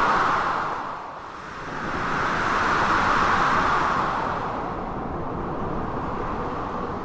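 Storm ambience of blizzard wind and breaking sea waves: a dense, rushing hiss that swells, eases about a second in, then swells again for a couple of seconds before settling back.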